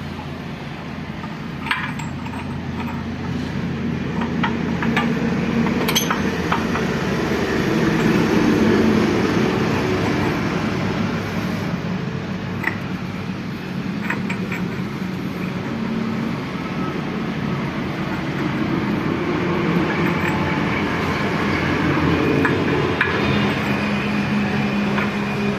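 An engine running steadily, its level slowly rising and falling, with a few sharp metallic clinks.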